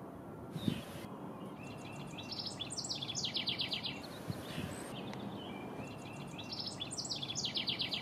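A songbird singing the same phrase twice, each a few short notes running into a fast high trill, about two seconds long, over a steady low rumble of outdoor background noise. A short thump comes just under a second in.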